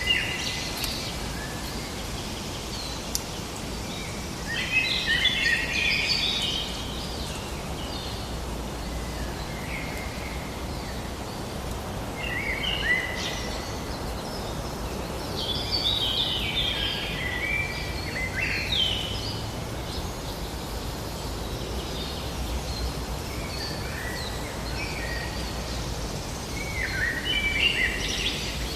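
Songbirds singing in short, warbling phrases every few seconds over a steady low background rumble of outdoor ambience.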